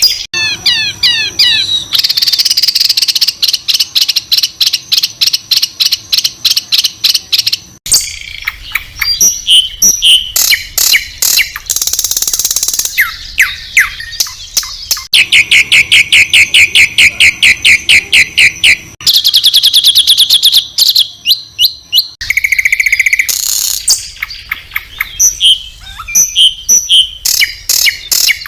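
Songbird 'masteran' tutor recording: loud, high-pitched bird song made of rapid repeated notes and trills (harsh 'tembakan' bursts), switching abruptly between different birds' phrases every few seconds.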